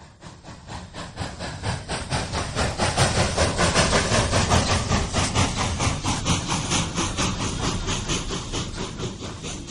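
Steam locomotive chuffing, with rapid, even exhaust beats of about five a second and hiss. It swells over the first few seconds, then slowly fades.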